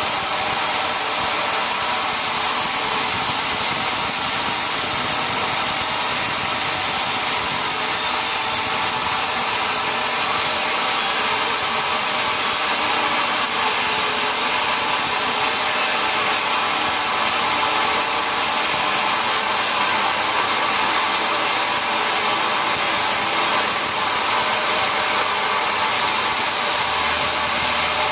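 Sawmill machinery running steadily: a loud, even machine noise with a high hiss and several steady tones, with no pauses or changes.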